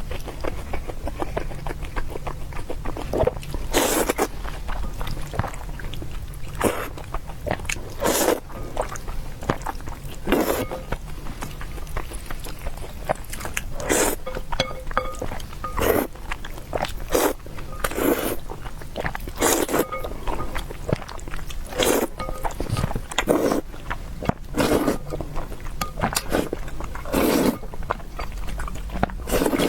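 A person eating at close range: repeated chewing and biting sounds, one every second or two, over a low steady hum.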